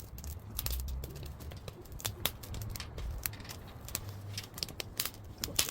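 Wood fire crackling under a wire grill of pork belly: irregular sharp pops and snaps, several a second, over a low rumble.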